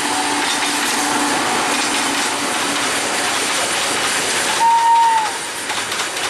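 Freight train rolling past, its wagons' wheels making a steady rushing rattle on the rails. About three-quarters of the way through comes a brief high-pitched tone, the loudest moment.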